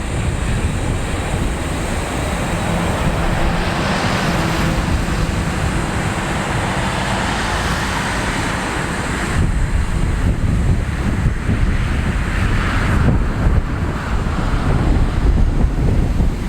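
Wind buffeting the microphone in gusts, over the low steady rumble of a distant jet airliner's engines running at low power.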